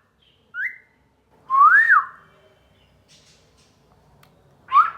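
Whistling: a short rising whistle, then a louder whistle that rises and falls about a second and a half in, and a brief whistled call near the end.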